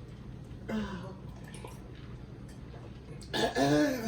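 A person's vocal sounds of pain from the burn of superhot peppers: a short falling sound about a second in, then a louder drawn-out groan near the end.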